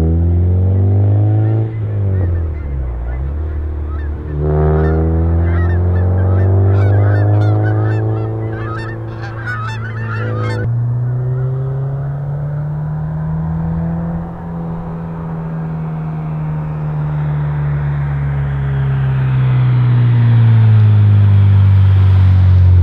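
2011 Honda Civic Si's 2.0-litre K20 four-cylinder engine, with aftermarket intake, header and exhaust, revving hard. The pitch climbs, dips about two seconds in, then climbs again with a run of crackling exhaust pops. Just before halfway it changes suddenly to a steadier note that rises and falls slowly in pitch, growing louder near the end.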